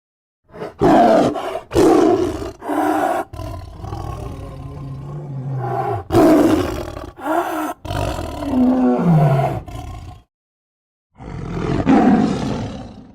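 Monster roar and growl sound effects made for a cartoon monster character: a string of loud, short roars with brief gaps, a longer low growl in the middle, and one more roar after a pause about ten seconds in.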